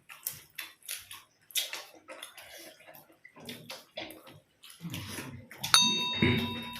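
Wet chewing and mouth sounds of people eating paratha and curry, in short irregular bursts. Near the end comes a sharp clink of a dish that rings on for about a second.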